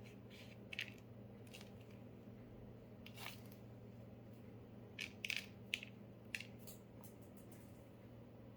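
A few faint, short clicks and taps, a small cluster of them about five seconds in, over a steady low hum.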